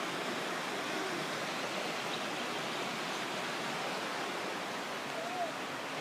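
Steady, even rush of falling and flowing water from Pistyll Rhaeadr waterfall and its river.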